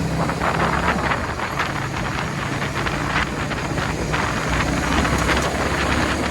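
Motorcycle running at riding speed on a highway: a low engine hum under steady road and wind noise.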